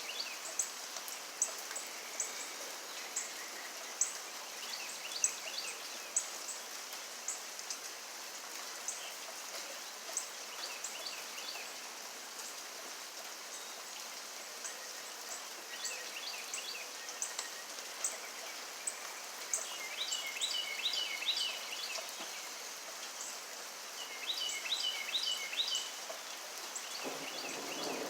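Steady rainfall with short, high chirping calls scattered through it, coming in quick runs twice in the second half. A low rumble of thunder begins in the last second.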